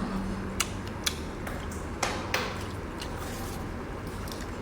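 Shellfish shells being handled and cracked while eating: a few scattered sharp clicks and cracks, the strongest about two seconds in, with a soft rustle a little later.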